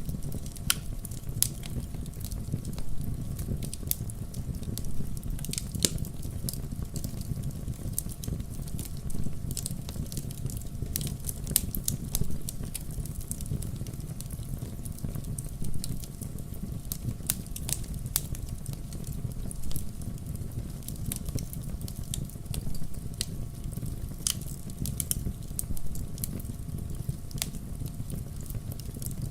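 Wood logs burning in a fireplace, crackling with frequent irregular sharp pops over the steady low noise of the flames.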